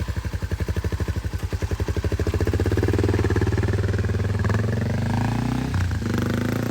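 Single-cylinder motorcycle engine just started, firing in even pulses that quicken and grow louder over the first few seconds, then running steadily.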